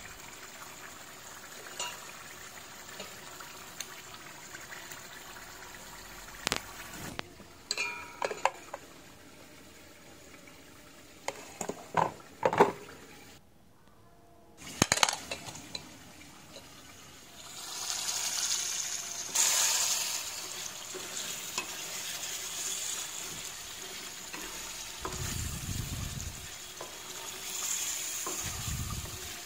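Chicken curry simmering in a kadai with a faint steady bubbling, then scattered spoon clicks and scrapes as butter is scooped from a tub. From a little past halfway, louder steady sizzling as the chicken pieces fry and a spoon stirs them around the pan, with a few dull knocks near the end.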